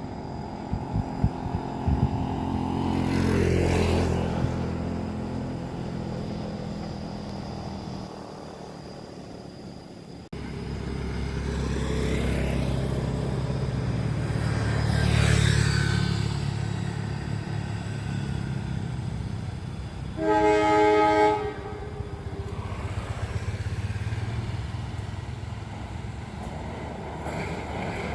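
A diesel train running past with a deep engine rumble that swells twice as it comes close. About two-thirds of the way through, its horn sounds one blast of about a second and a half, a chord of several tones.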